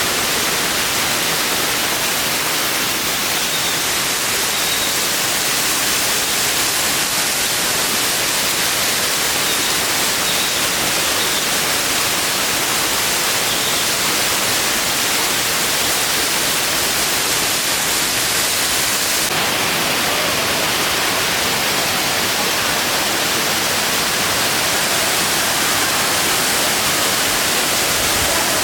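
Steady rushing of a waterfall's falling water, an even hiss with no breaks.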